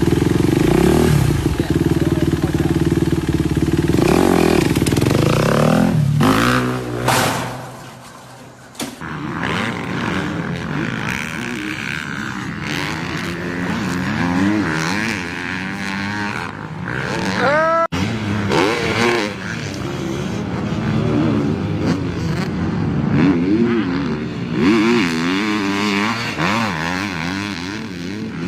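Small off-road engines running and revving across a string of short clips. A steady engine note gives way about a quarter of the way in to engines whose pitch rises and falls, with abrupt breaks between clips.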